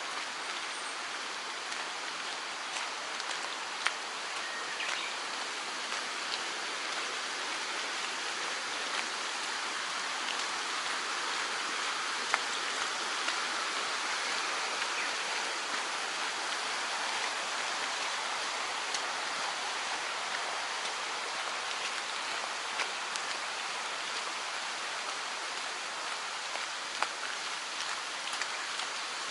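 Mountain stream rushing steadily over rocks, with a few sharp ticks on top.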